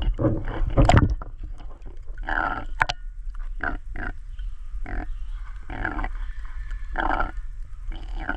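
Short, harsh animal calls repeated about once a second, after a brief loud rush of noise at the start.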